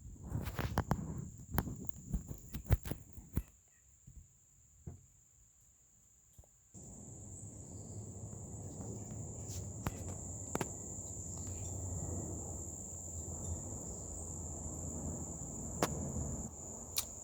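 Insects trilling steadily on one high pitch. A run of irregular sharp knocks comes in the first few seconds, with single knocks later on. About seven seconds in, a low rumble comes up and stays.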